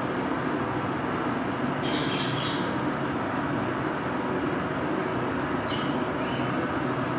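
Gas brazing torch burning with a steady rushing noise while the refrigerator's suction pipe is brazed. Short high chirps come about two seconds in and again near the end.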